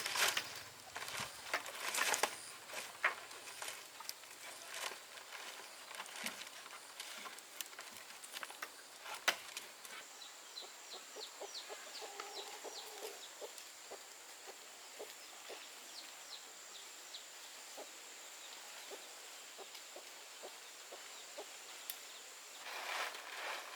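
Chickens clucking, among scattered small clicks. From about ten seconds in, a run of short high chirps sounds over a steady high-pitched whine, which stops shortly before the end.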